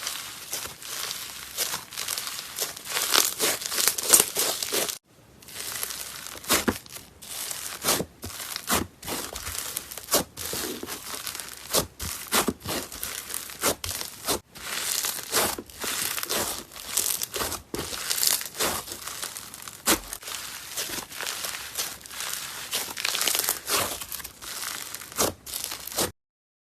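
Slime being squeezed and stretched by hand, giving a dense run of crackling pops and crinkles. The sound drops out briefly about five seconds in and again just before the end.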